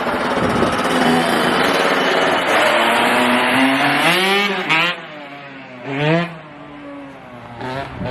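Dirt bike engine running hard and loud close by for about five seconds, then easing off, with several quick throttle blips whose pitch climbs and drops.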